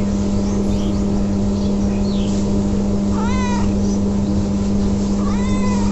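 A cat meowing twice, once about three seconds in and again near the end, each call rising then falling in pitch, over a loud, steady, low mechanical hum.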